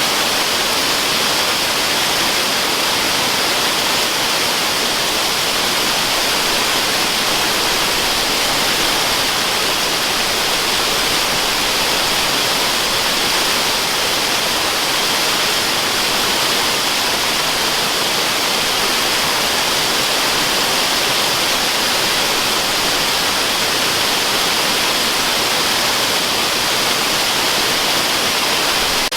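Steady, unbroken rushing of a waterfall used as white noise, a hiss-like roar strongest in the upper range and thin in the bass.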